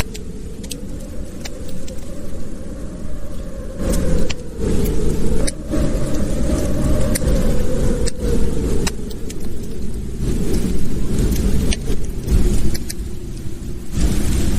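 Wood fire crackling in a fireplace: scattered sharp pops over a steady low rumble.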